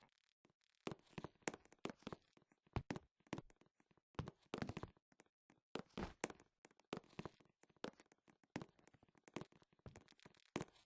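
Faint, irregular light tapping and knocking, the taps coming in quick clusters with short pauses between.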